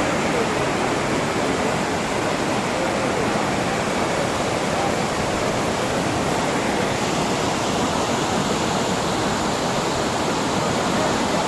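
Steady, loud rush of a flash-flood torrent, floodwater pouring down a swollen stream channel after a cloudburst.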